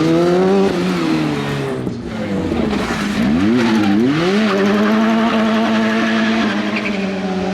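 Rally car engine revving hard: the pitch climbs and falls in the first second, drops away, climbs again in quick revs about halfway through, then holds at a steady high pitch until near the end.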